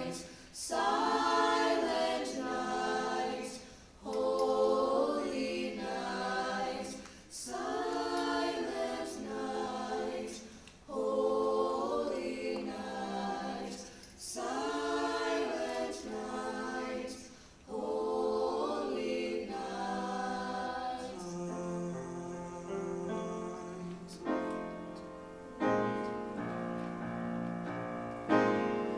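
High school choir singing a holiday piece in short phrases with brief breaths between them, moving into longer held chords in the last several seconds.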